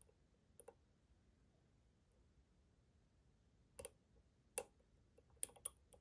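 Small, sharp clicks of lock picks working inside a Schlage Primus Everest lock cylinder: two faint ticks near the start, then louder, irregular clicks in the second half, with a quick run of several together near the end.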